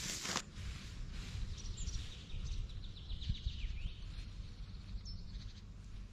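Outdoor ambience: a steady low rumble with faint, short bird chirps, after a brief rustling noise in the first half-second.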